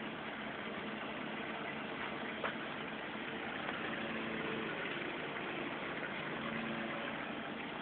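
Hajdu Energomat Komfort washing machine running in its rinse cycle: a steady noise with a faint low hum, and a single click about two and a half seconds in.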